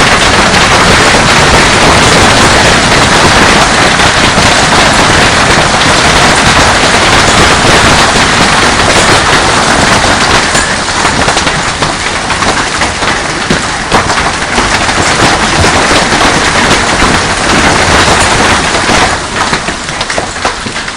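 Hailstorm: hailstones pelting down with heavy rain in a loud, dense clatter of countless impacts. It eases a little about halfway through and dies down near the end.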